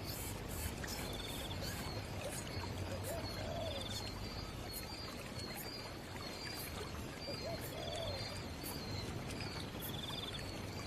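Outdoor ambience with a steady hiss and repeated short bird calls: a low two-note call every few seconds and a higher buzzy trill every couple of seconds, over regular high ticking like insects.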